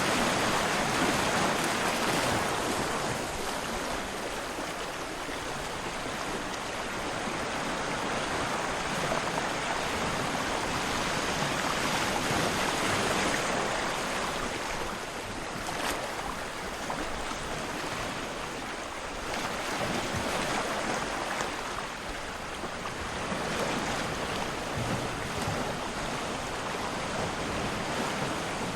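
Ocean waves washing in, a continuous rush of water that swells and eases every few seconds.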